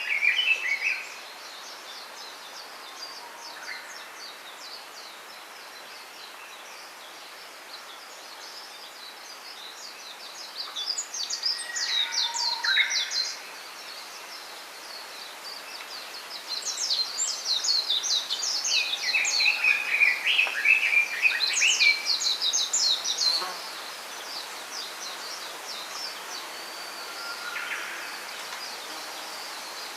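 Small songbirds singing and chirping, with fast high trills that swell a little before the middle and again through much of the second half, over a steady background hiss.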